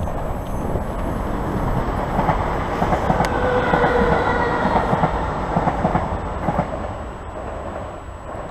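Passenger train running through the station, its wheels clattering over the rail joints. It is loudest midway, with a brief whine, then fades as it draws away.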